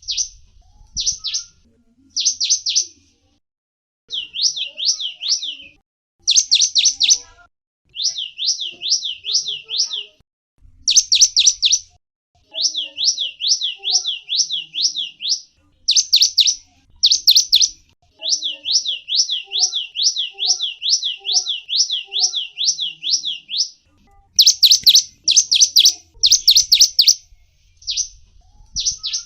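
Small songbird (gelatik wingko) calling in quick runs of high, downward-slurred chirps, about four to five a second. The runs are broken by short pauses, with the longest runs in the middle of the stretch.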